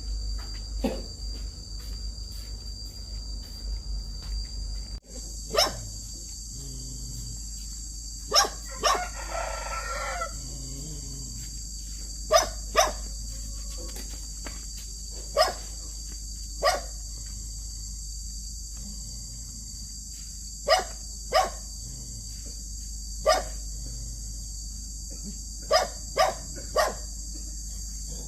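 A dog barking in short single and double barks every few seconds, over a steady high drone of crickets. A rooster crows once, about nine seconds in.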